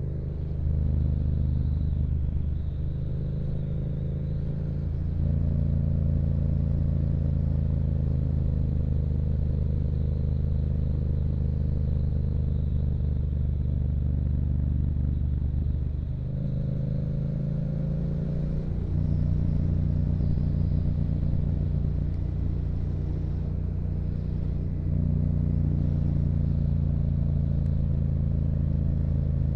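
Yamaha MT-07's 689 cc 270° parallel-twin engine, breathing through a Yoshimura aftermarket exhaust, running steadily while riding. Its low note shifts in steps several times, stepping up about 5, 19 and 25 seconds in.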